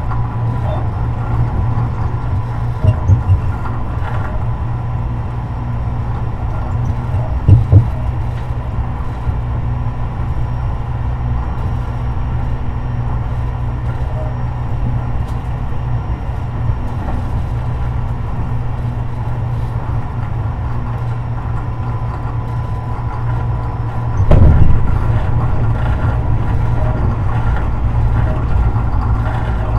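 Tobu 50090 series electric train running, heard from inside the car over its running gear: a steady low rumble with a faint constant high hum. Short thumps come about three and eight seconds in, and a heavier one comes about 24 seconds in, after which the running is a little louder.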